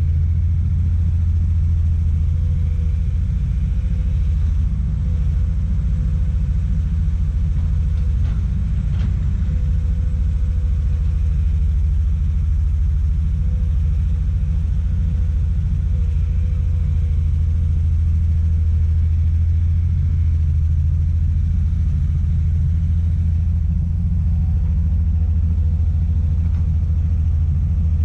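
Komatsu PC200 excavator's diesel engine running steadily: a deep, even rumble with a faint steady whine above it.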